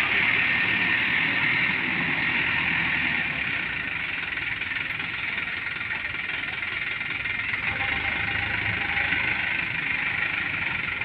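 Diesel engine of a loaded sand dump truck running steadily, a continuous mechanical noise with no sharp events.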